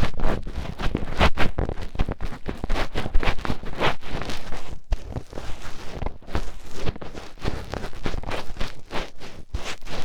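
Fingertips digging and rubbing deep inside the ear of an ASMR microphone, making close, dense scratching and rustling with many quick strokes in irregular bursts.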